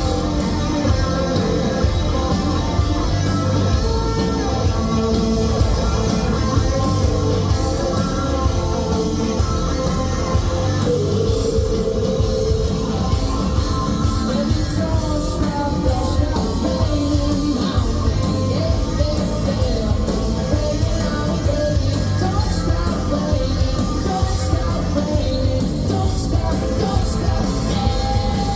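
Rock band playing a song with a singer, electric guitar and bass up front, loud and continuous.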